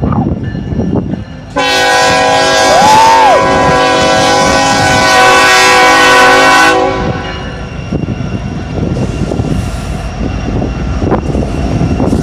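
BNSF freight locomotive's air horn sounding one long blast of about five seconds, starting about a second and a half in, over the rumble of the passing train. After the horn stops, the locomotive and rail cars keep rumbling.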